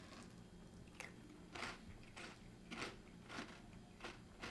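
A person chewing a mouthful of dry Froot Loops cereal: a steady run of faint crunches, a little under two a second.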